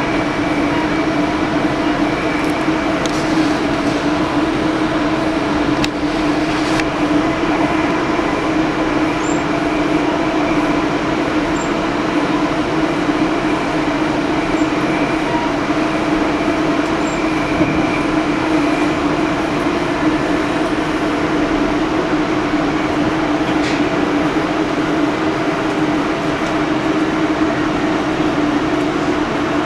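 A train running steadily: continuous noise with a constant hum, unchanging in level throughout.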